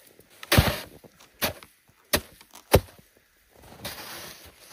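Large snow shovel working loose snow: four short strokes of the blade cutting and knocking into snow, then a faint haze of shuffling.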